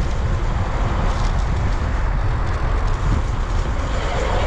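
Steady wind rush buffeting the microphone of a road bicycle as it is ridden, a low, even rumble without breaks.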